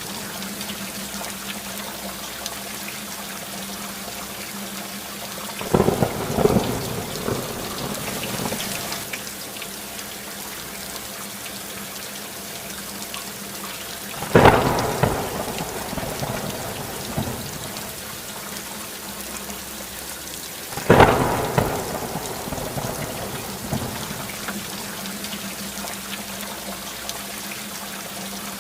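Steady rain falling throughout, with three sudden claps of thunder, each trailing off into a rumble over a couple of seconds.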